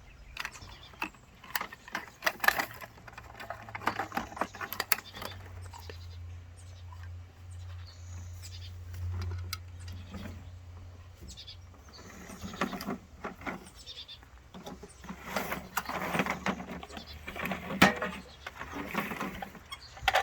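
Garbage truck at work: its diesel engine hums low, swelling for several seconds in the middle, amid repeated clanks, knocks and squeaks from its lifting mechanism and the bins.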